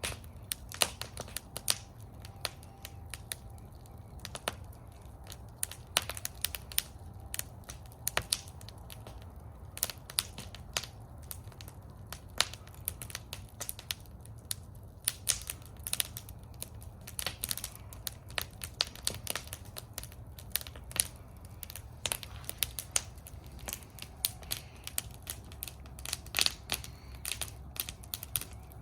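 Wood fire burning in a fire bowl, crackling with many irregular sharp pops and snaps over a low steady rumble of the flames.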